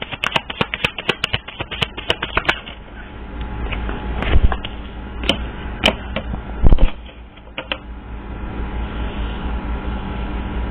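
Tarot cards being shuffled: a quick run of rapid card clicks for the first two and a half seconds, then a few separate taps and thumps as cards are handled. The loudest thump comes a little past the middle, and a steady low hum runs underneath toward the end.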